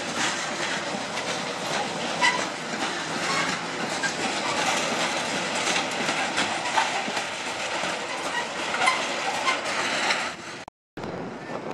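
Freight train hopper wagons rolling past at close range: a continuous rumble of wheels on rail with many short clicks and clanks. The sound cuts off abruptly near the end.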